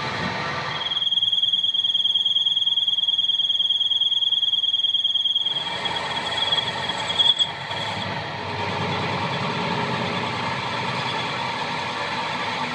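Metalworking machinery gives a steady, high-pitched squeal for about four and a half seconds, then steady mechanical running noise with a brief sharp spike around seven seconds in.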